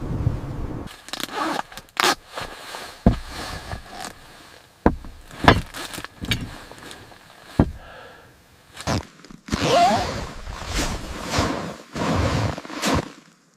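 Steps crunching in snow, about one every 0.7 s in the second half, after a first half of scattered sharp knocks and scrapes.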